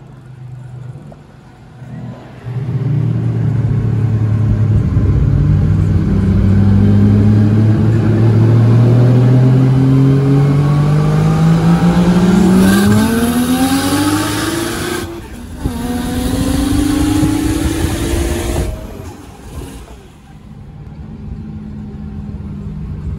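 A car engine at full throttle on a drag run: it comes in loud about two and a half seconds in and climbs steadily in pitch for about twelve seconds. It breaks off briefly at a gear change, climbs again, and is shut off about nineteen seconds in, then fades.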